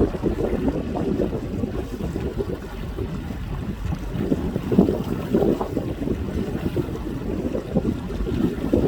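Wind buffeting the microphone on a boat cruising along a canal: a loud, low, gusty rushing noise that swells and dips, with the boat's movement through the water underneath.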